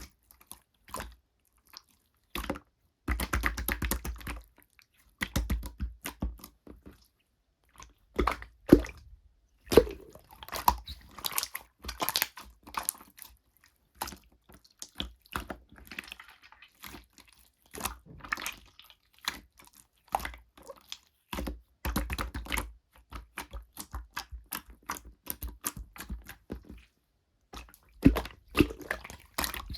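Slime being pressed, squeezed and stretched by hand: irregular sticky clicks and crackling pops that come in dense bursts with short pauses between them.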